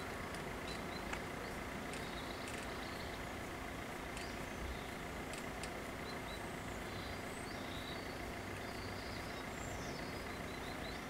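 Small birds chirping now and then over a steady low outdoor background hum.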